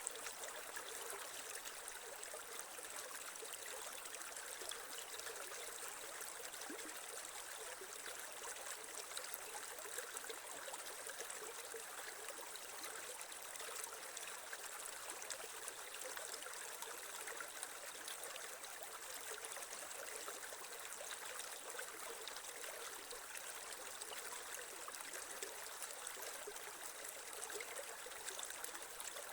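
Small creek flowing and trickling over stones, a steady, even rush of water.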